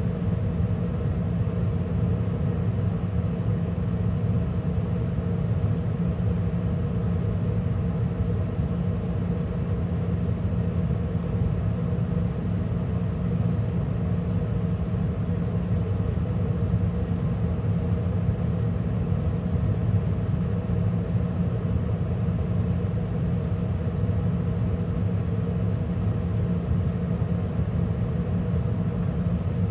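2013 Carrier gas furnace running steadily mid-cycle, with burners lit and the inducer fan and circulating blower both going: an even rumble with a steady low hum.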